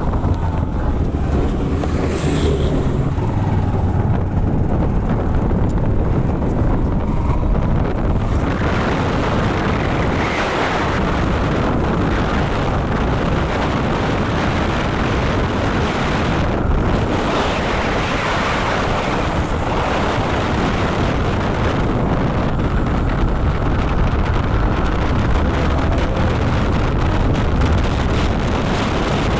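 Motorcycle riding along, with wind rushing over the microphone. A low steady engine hum is clearest near the start and again near the end; from about eight seconds in, a broad rush of wind and road noise takes over.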